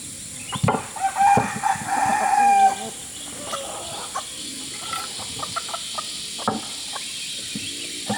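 A rooster crowing once, starting about half a second in and lasting around two seconds, with a few scattered light knocks.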